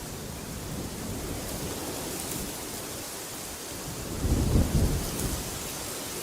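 Wind blowing steadily with a low rumble that swells into a stronger gust about four seconds in.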